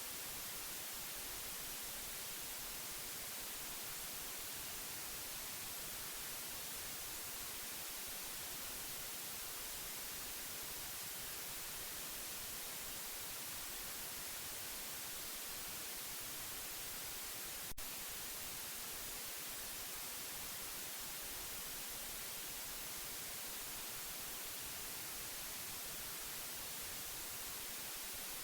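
Steady white noise: an even, unchanging hiss, brightest in the high end. A single short click about eighteen seconds in.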